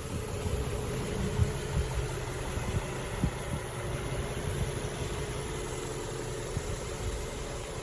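2014 Infiniti Q60's 3.7-litre V6 idling steadily, a low even rumble with a faint steady hum above it.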